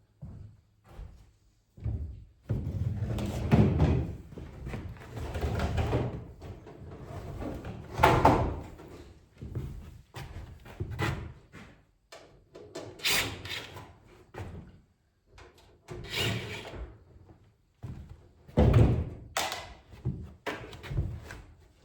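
Irregular clunks, knocks and scraping as a microwave's metal outer case is worked loose and pulled off, with a few louder bangs.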